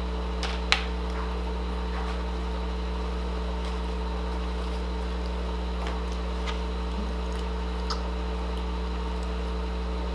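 Steady low electrical or mechanical room hum, with a few faint clicks and one sharper click about a second in, from people eating at a table.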